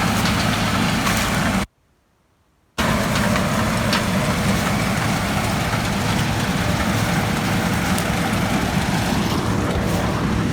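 Gleaner combine running under load, a loud steady engine-and-machinery drone with a faint steady whine. The sound cuts off abruptly for about a second, about two seconds in, then resumes unchanged.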